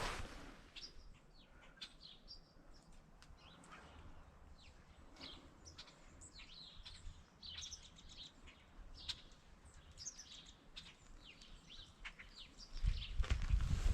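Small birds chirping, many short separate calls overlapping through the whole stretch. Near the end comes a louder, low rustling noise.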